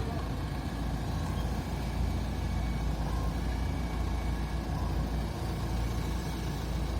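Heavy vehicle engine running steadily with a low, even rumble, from a forklift or truck at work.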